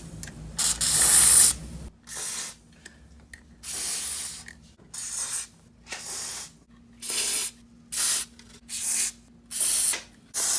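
Aerosol can of WD-40 white lithium grease spraying in about ten short hissing bursts, each under a second, lubricating the rollers and roller brackets of a garage door.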